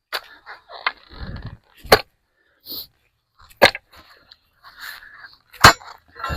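A big pick striking rock and gravel at the bottom of a post hole: sharp hits every second or two, with crunching and scraping of stones between blows. It is hitting a big rock lodged in the hole.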